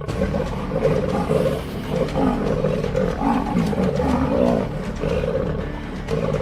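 Lion calling in a series of short, deep roaring calls, several in quick succession.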